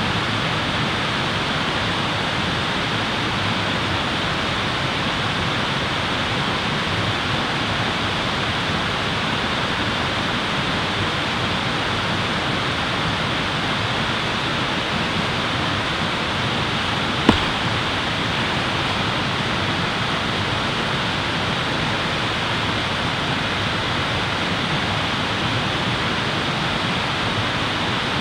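Steady, even rushing noise with no rhythm or pitch, broken once about two-thirds of the way through by a single sharp pop.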